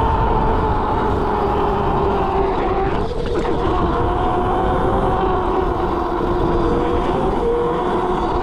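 Electric mini bike's motor whining steadily while riding, its pitch drifting slightly with speed, over a heavy low rumble of wind on the microphone.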